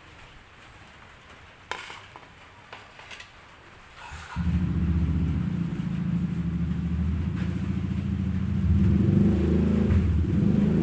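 A few light clicks, then about four seconds in a motor vehicle engine starts suddenly nearby and runs with a steady low rumble, growing louder near the end.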